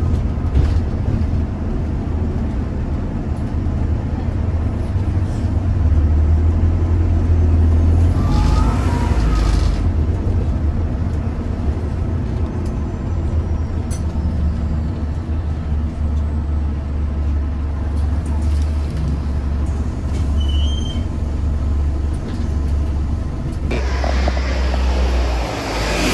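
Interior of a London double-decker bus in motion: a steady low engine and drivetrain drone, with a hiss of air from the brakes or doors about nine seconds in and again near the end.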